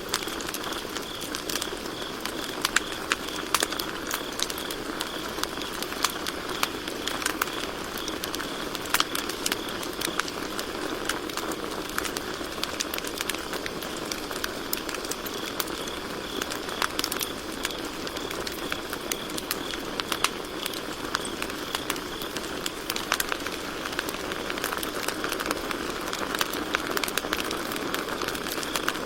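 Campfire crackling with frequent sharp pops and snaps, over crickets chirping in a steady high trill that dies down for a while in the middle and comes back.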